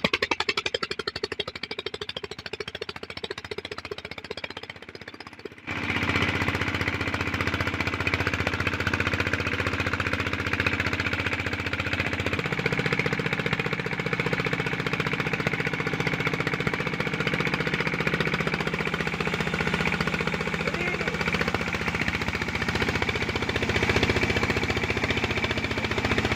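Stationary diesel engine running with a rapid, steady chugging knock. It gets louder about six seconds in.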